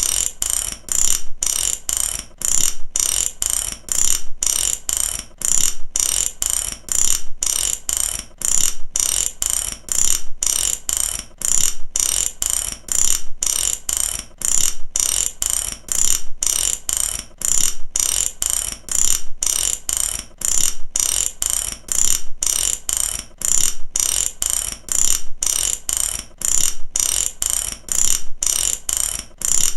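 Mechanical ratchet clicking, its pawl snapping over the teeth in rapid runs of sharp, high clicks that repeat in an even rhythm.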